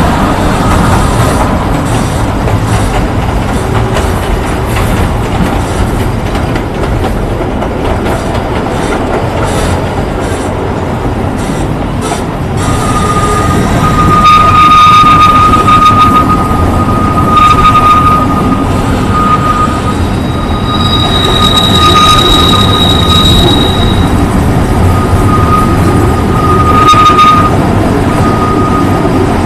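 Kurobe Gorge Railway narrow-gauge train running, heard from inside an open-sided carriage: a steady rumble and rattle of wheels on the rails. From about halfway through, a high steel-wheel squeal sets in and comes and goes again and again.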